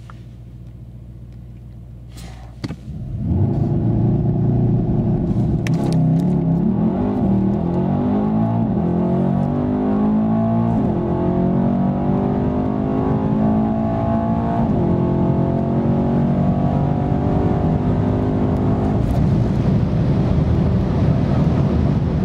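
Mercedes-AMG E 63 S's 4.0-litre twin-turbo V8 idles, then launches hard about three seconds in, after a couple of clicks. It revs up at full throttle in rising sweeps, broken by quick upshifts of its nine-speed automatic up to fifth gear, heard from inside the car.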